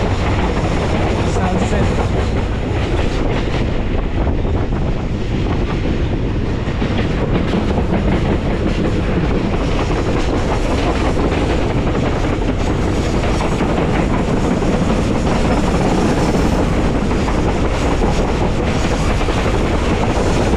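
TAZARA passenger train running at speed, heard from an open carriage window: a loud, steady rush of wheels on rail with irregular clicks of rail clatter.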